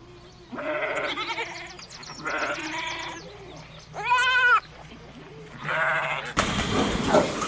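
Bleating livestock: four separate bleats about a second or more apart, the third one loud and quavering. Near the end the sound cuts suddenly to a rougher, noisier sound.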